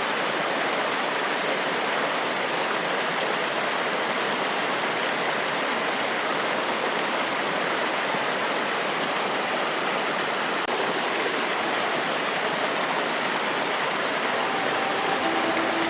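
Forest waterfall: water cascading over rocks, a steady, even rush with no pauses. Near the end, faint steady tones come in under the water.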